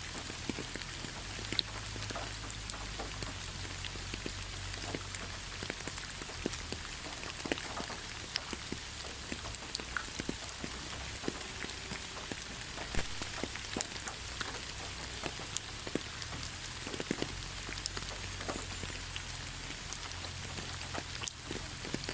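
Gentle rain: a steady hiss with many individual drops ticking and pattering irregularly on a surface.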